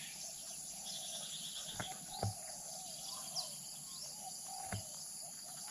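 Natural outdoor ambience: insects buzz steadily and high, and a small bird gives a few short rising chirps. Three soft knocks come about two, two and a half, and near five seconds in.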